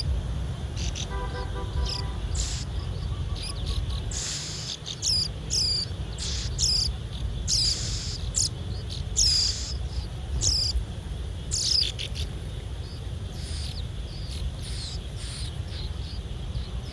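Birds chirping outdoors: short, high, down-hooked chirps repeated irregularly, over a steady low rumble.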